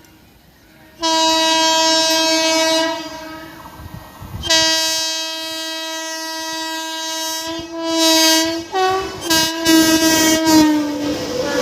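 Indian Railways electric locomotive horn: a two-second blast, a longer blast of about three seconds, then a string of short toots whose pitch drops slightly as the locomotive passes. Near the end the rush and rumble of the passing train takes over.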